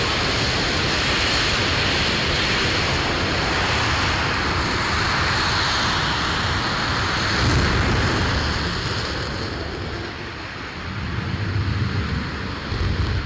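RS-25 liquid-hydrogen/liquid-oxygen rocket engine on a test-stand firing, a loud crackling roar with deep rumble. It holds steady for about eight seconds, weakens, swells again near the end, then drops away.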